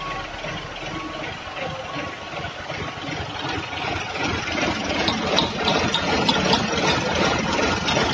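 Daihatsu Rocky 4x4's engine running at idle while it is winched through mud, getting louder about four seconds in.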